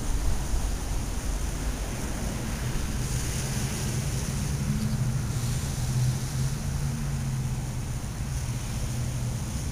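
Wind rumbling on the microphone, with a low steady hum joining in for a few seconds in the middle.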